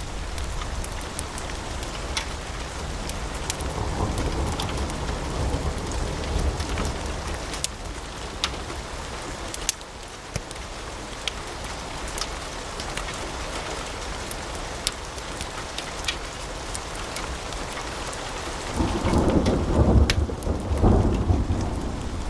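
Wood fire burning in a fireplace, crackling with scattered sharp pops over a steady hiss of flame. Near the end a louder low rumble swells for about two seconds.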